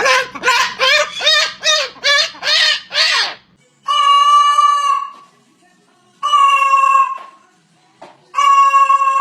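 A parrot calling: first a quick run of about eight short calls that rise and fall in pitch, then three long, steady, shrill calls of about a second each with pauses between them.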